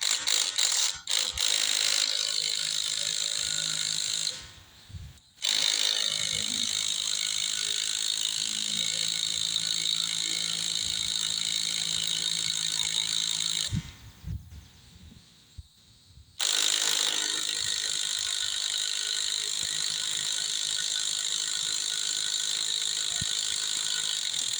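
Impact wrench hammering on a fastener through a 3/8 adapter and socket in three long runs, stopping briefly about four seconds in and again around fourteen seconds in. The runs are long enough to leave the socket burning hot.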